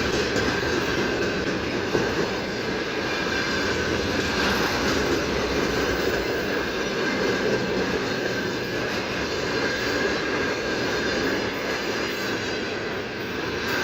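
Freight train wagons rolling past: a steady, loud rumble of steel wheels on rail, with a faint high ringing note from the wheels.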